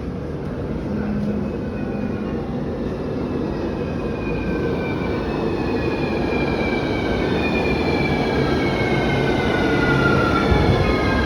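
Sanying Line metro train running, a low rumble that slowly grows louder, with several whining tones that slide down in pitch through the second half, as a train does when slowing.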